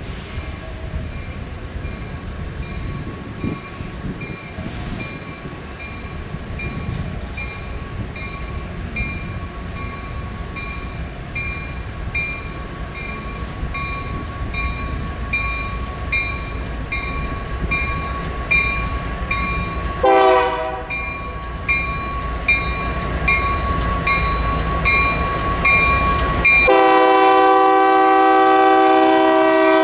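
Train horn: a short blast about twenty seconds in, then a long, loud blast near the end, over a low train rumble that grows louder. A grade-crossing bell dings steadily about twice a second throughout.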